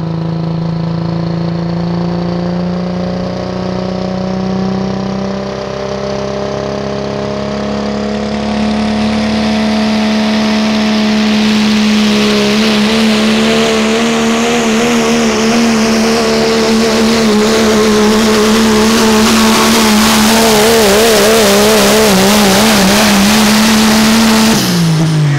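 Pulling truck's engine at full throttle dragging a sled down the track. The revs climb over the first ten or twelve seconds, then hold high with rising tyre and dirt noise, and drop off sharply a little before the end as the throttle is let off.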